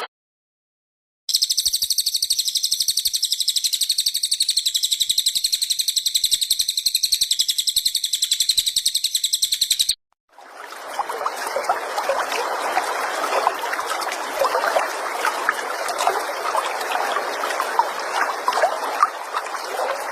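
Recorded songbird calls: first a high, rapidly pulsing trill for about nine seconds, then, after a brief break, a dense stretch of fast chattering calls.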